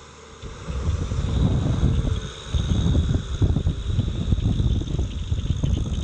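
Kubota tractor's diesel engine running, with wind buffeting the microphone; the rumble picks up under a second in and stays loud.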